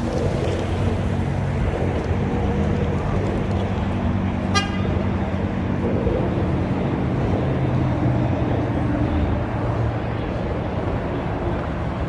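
Car engines running with a steady low rumble, cut through once by a short car horn beep about four and a half seconds in.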